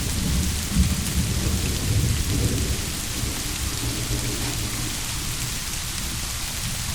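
Steady rain with a low rumble of thunder that eases off over the first few seconds.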